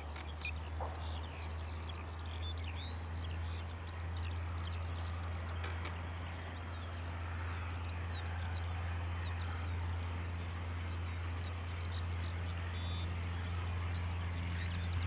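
Many small birds singing and chirping continuously, over a steady low rumble.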